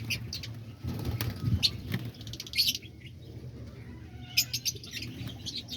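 Small aviary birds chirping in short, scattered high chirps, with wing flutters and light scuffling clicks in between.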